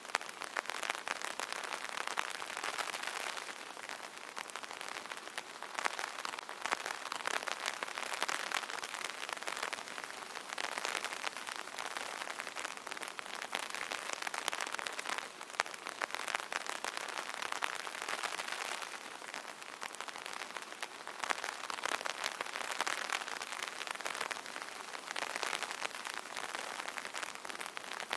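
Light rain falling on an umbrella: a dense, even spray of small drop hits that swells and eases every few seconds.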